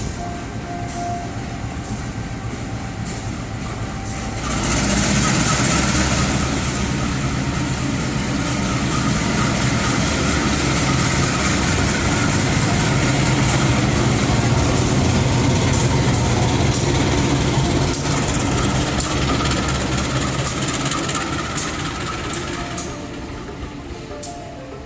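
A train passes close by through the station, rising suddenly to a loud, steady run of rail and machinery noise about four and a half seconds in. It holds with some clicking of wheels over the track, then fades away near the end.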